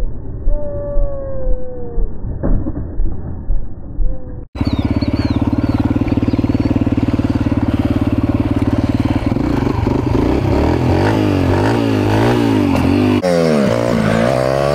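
For the first four and a half seconds, a muffled recording of drawn-out, falling howl-like calls. It then cuts abruptly to a mini bike's small engine running steadily, then revving up and down repeatedly.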